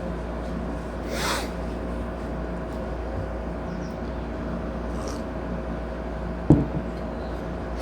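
Steady low hum of room noise, with a short breathy sniff about a second in and a sharp click a little over six seconds in.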